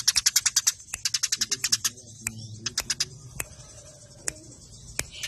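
Eurasian tree sparrows chirping in fast, tight rattling runs, the rapid calls of sparrows fighting. Two quick runs come in the first two seconds, followed by scattered single chirps.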